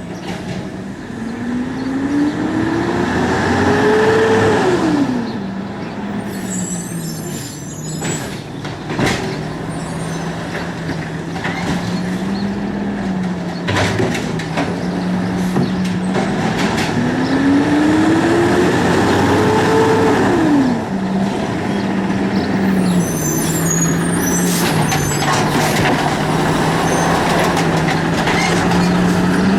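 City garbage truck at work, its diesel engine running steadily. Twice a whine rises for about three seconds and then falls off quickly, as the engine and hydraulics work through a loading cycle. There are clanks and air-brake hisses between.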